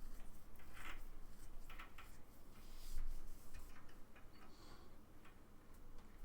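Scattered small clicks and rustles of power-supply cables and their plastic connectors being handled and plugged onto a PC motherboard.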